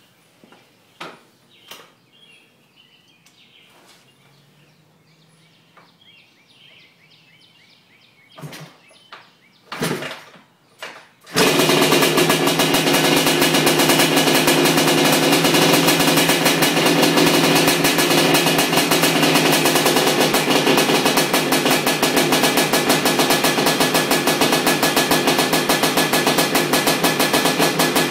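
A few short knocks against faint birdsong, then about eleven seconds in a Honda 250R trike's freshly built 310 ESR two-stroke engine fires up suddenly and runs steadily, with a fast, even pulse, on its first heat cycle.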